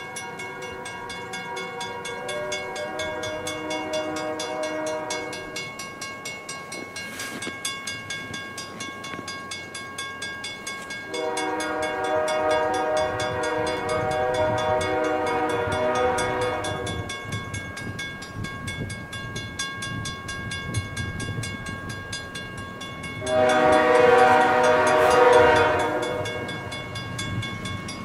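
CN freight locomotive's multi-note air horn sounding three blasts as the train approaches, the middle blast the longest at about six seconds. Under them, a steady rapid ringing with evenly spaced strikes, and the train's rumble grows louder near the end.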